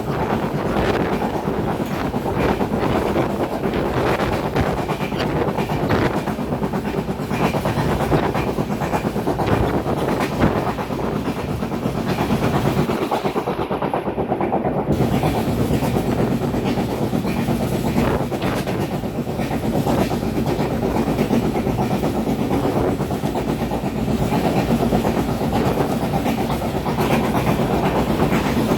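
Maru Sagar Express passenger train running past, its wheels clattering steadily over the rail joints.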